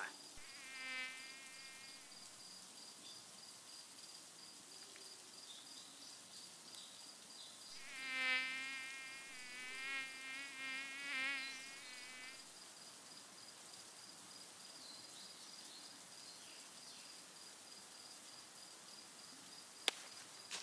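Mosquito whine, a thin buzz with a wavering pitch: faint about a second in, then louder as it passes close from about eight to twelve seconds in.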